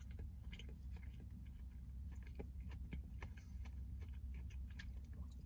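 A person biting into and chewing a fried chicken sandwich, with faint wet mouth clicks scattered through it over a low, steady hum.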